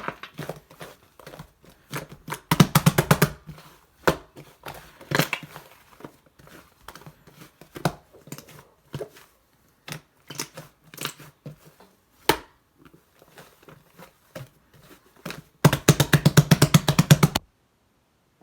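A large slime being pressed and worked by hand, giving irregular sticky clicks and pops. Twice it breaks into a run of rapid popping, about ten pops a second: briefly a few seconds in, and for nearly two seconds near the end, after which the sound stops.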